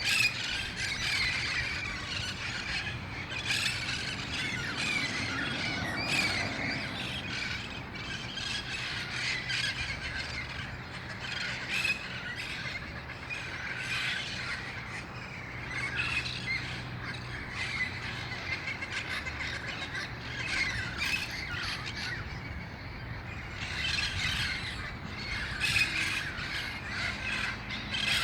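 A flock of wild red-faced parrots squawking and screeching without a break, many harsh calls overlapping. This is the noisy chorus of the flock gathering at dusk before going to roost.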